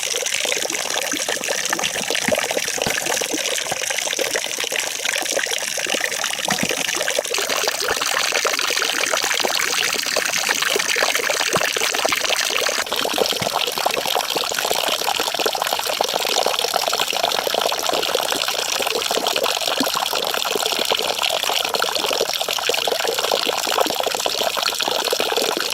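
Steady sound of running water, an even rushing noise. It changes character abruptly twice, about a third of the way in and again about halfway.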